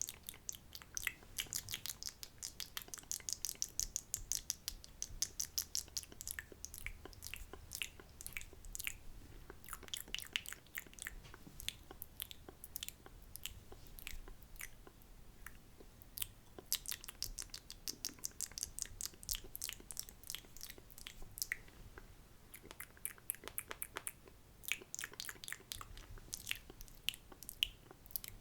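Close-miked wet ASMR mouth sounds: rapid runs of sharp tongue and lip clicks and smacks, coming in several clusters with short lulls between them.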